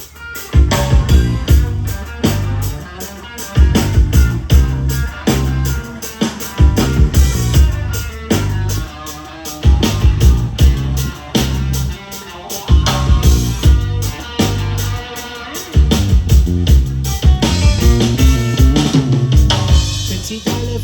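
Live reggae band playing an instrumental passage with no singing: drum kit keeping a steady beat over bass and guitar.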